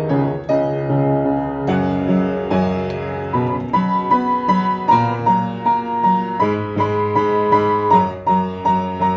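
Solo piano music: a slow melody with a repeating high note over steady chords in the bass.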